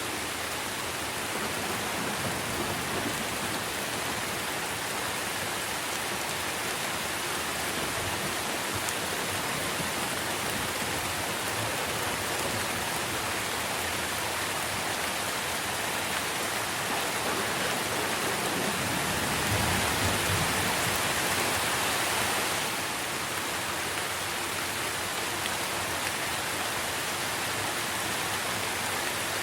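Steady rain falling on trees and leaves, an even dense hiss. About two-thirds of the way through it swells for a few seconds, fuller in the low end, then settles back.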